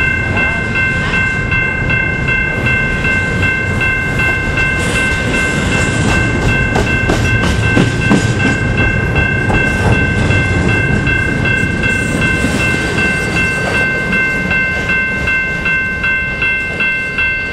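A long double-stack container train's cars rolling past close by: a steady low rumble with scattered wheel clicks. Over it a grade-crossing warning bell rings steadily, pulsing more distinctly near the end.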